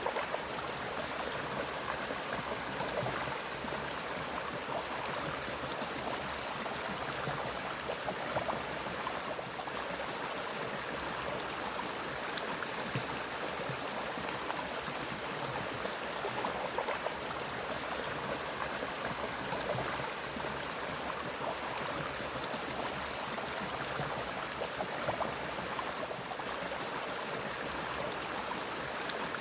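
Mountain stream flowing steadily through forest, an even rush of water, with a thin, steady high-pitched tone running alongside it.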